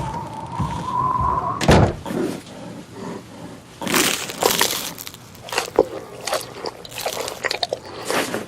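A steady high tone that stops under two seconds in, then a run of irregular sharp cracks and knocks, like something breaking.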